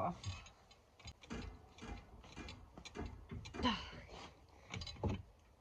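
Ratchet wrench clicking in short, irregular bursts, with metal clinks, while working at a lug nut that is not coming loose. A brief voice sound about three and a half seconds in.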